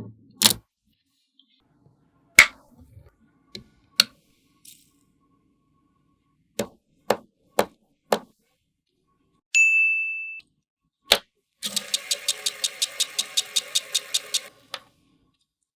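Small magnetic balls clicking sharply as they snap together, one click at a time, with four evenly spaced clicks about halfway through. A short bright ding follows, then one more click, and near the end a rattling run of about five beats a second lasting some three seconds.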